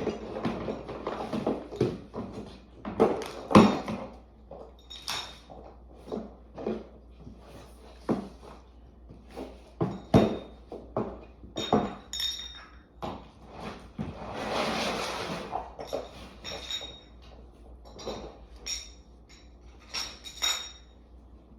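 Hands rummaging through stored items: hard objects knock and clink together, several with a brief high ring like glass or ceramic pieces touching, and a burst of rustling about fourteen seconds in.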